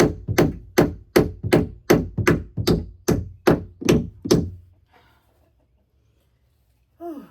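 A hammer driving a nail into a wooden roost perch: about a dozen steady, evenly paced blows, roughly two and a half a second, that stop about four and a half seconds in.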